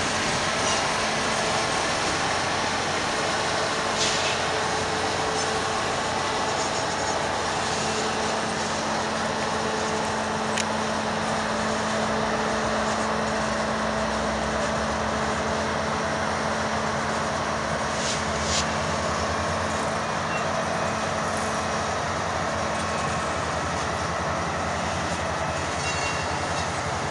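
Canadian Pacific Holiday Train's freight cars rolling slowly past in reverse: a steady rumble of wheels on rail, with a few sharp clicks now and then and a steady low hum through the middle.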